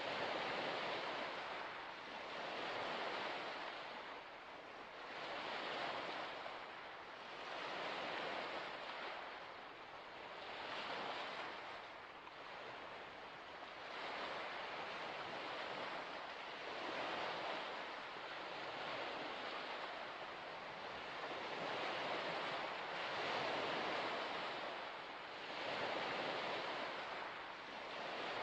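Small waves lapping at a shore, the wash of water rising and falling every couple of seconds.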